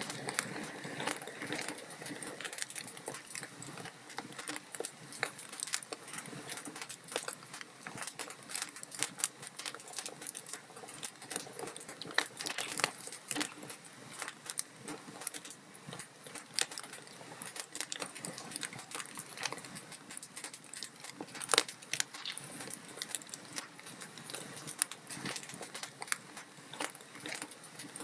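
Log fire crackling in a fireplace: burning wood snapping and popping irregularly over a soft hiss, with a few sharper pops, the loudest about three-quarters of the way through.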